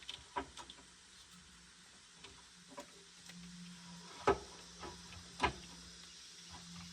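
Scattered light metallic clicks and clinks of hand tools and parts being handled, with two louder clanks about four and five and a half seconds in, over a steady low hum.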